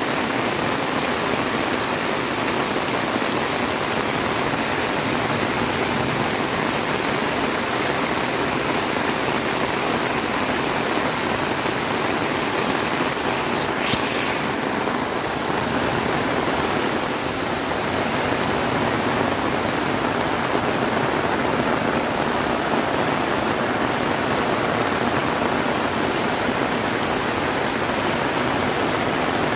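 Heavy rain pouring steadily, a dense even hiss of water, with a brief high falling swish about halfway through.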